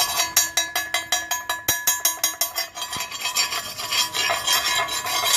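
Slag being scraped and knocked off a freshly laid 7018 stick-weld bead with a metal cleaning tool, in quick repeated metal-on-metal strokes.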